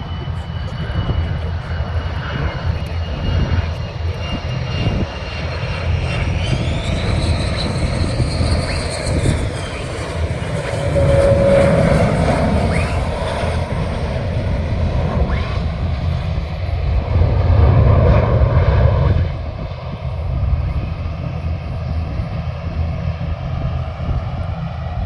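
Jet aircraft engines running loud and steady under a deep rumble, with a high whine that rises about six seconds in and falls away a few seconds later. The noise swells twice more, near the middle and again near the end.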